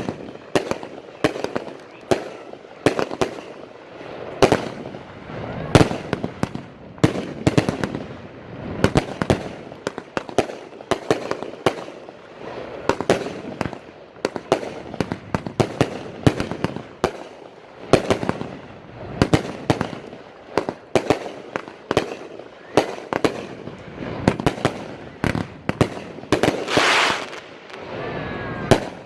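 Consumer firework cake ("Piranha") firing a long, rapid, irregular string of shots: launch thumps and aerial breaks with crackle, thickening into a dense burst near the end.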